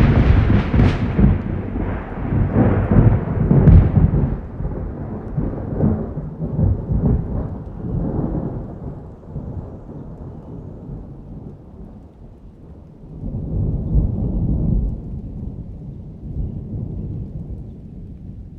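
A thunderclap cracks in suddenly, then rolls into a long rumble of thunder that slowly fades, swelling again briefly about two thirds of the way through.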